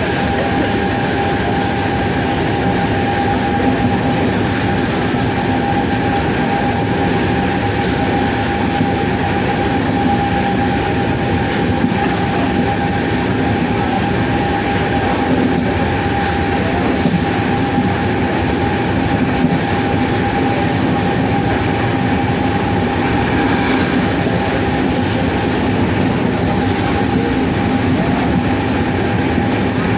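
WAP-7 electric locomotive's three-phase AC traction motors whining on one steady pitch over the continuous rumble of the moving train.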